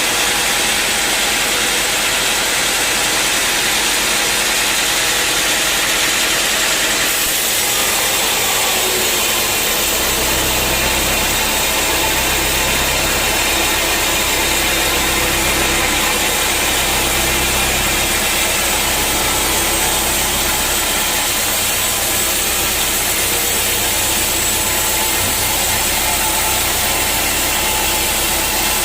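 Sawmill machinery running steadily while the saw cuts through a teak log; about seven seconds in the sound changes, and from about ten seconds a low rumble joins in that swells and fades every few seconds.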